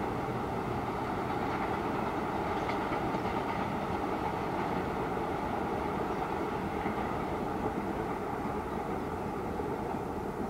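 Passenger train coaches rolling across a long river bridge, heard from far off as a steady rumble that slowly fades near the end as the train moves away.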